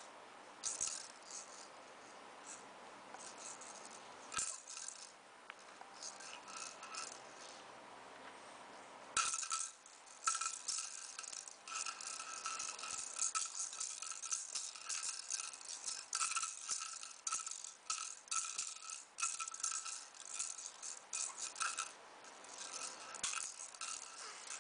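A rattle being shaken in quick bursts. The bursts are sparse for the first nine seconds or so, then the shaking runs almost without a break.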